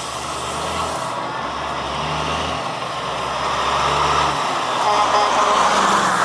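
Diesel engines of prime-mover trucks running as the trucks drive slowly past, the engine noise building toward the end.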